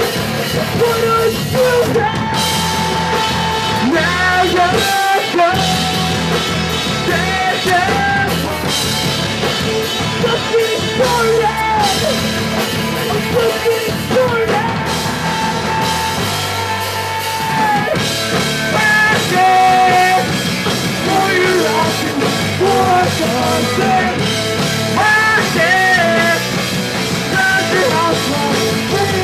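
Live punk rock band playing a song: drum kit and guitars with a sung lead vocal line.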